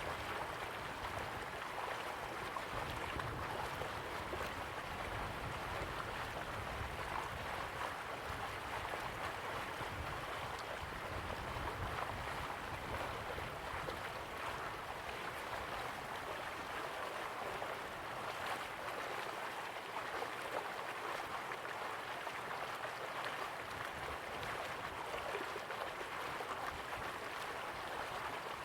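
River water flowing steadily with a soft continuous rush, without a break or change in level.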